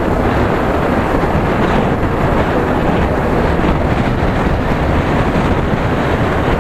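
Wind rushing and buffeting over the microphone on a moving motorcycle, a loud steady noise with the road and engine noise of a Yamaha R15 V3 beneath it.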